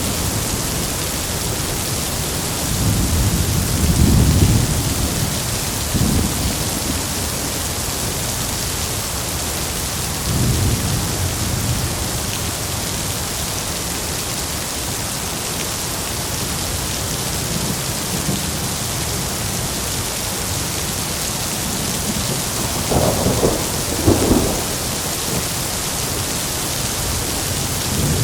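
Heavy rain falling steadily, with thunder rumbling low several times. A sharper double crack of thunder comes near the end.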